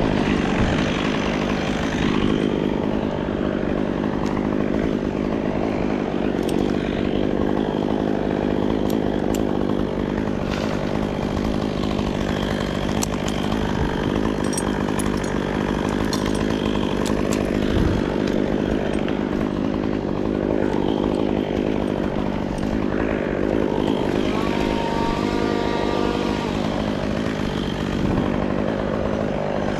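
Gasoline chainsaw running steadily, the engine held at a constant pitch throughout.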